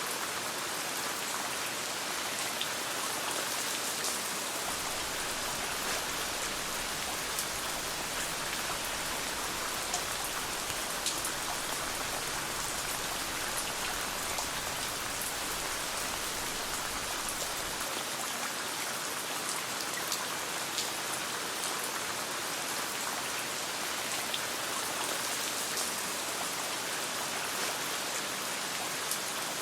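Steady rain patter, an even hiss with scattered sharp ticks of drops.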